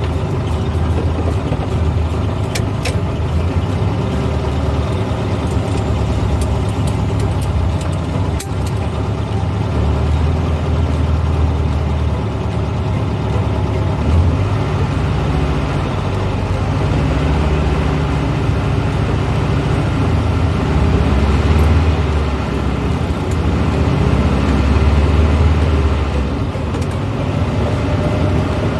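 Engine of a 1970s Volkswagen running as the car is driven, its pitch rising and falling several times with the revs, over steady road noise. A few sharp clicks come in the first nine seconds.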